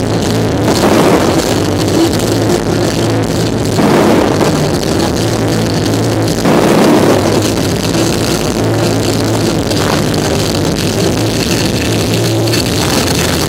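Loud electronic dance music playing over a fireworks display, with the bangs and crackle of aerial fireworks bursting on top of it, loudest in three surges about one, four and six and a half seconds in.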